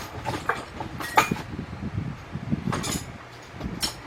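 Metal tools clinking and clattering in a few sharp knocks, as someone rummages for a socket, over a low steady hum.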